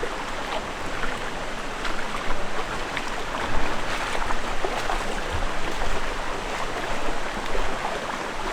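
Stream and waterfall water rushing steadily, with small irregular splashes close by.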